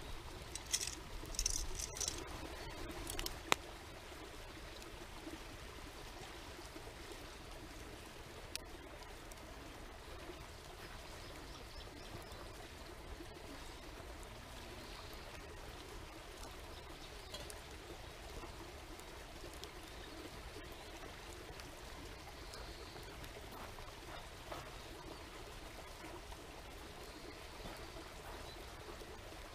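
Steady sound of running water, like a stream, with a few clicks and knocks in the first four seconds.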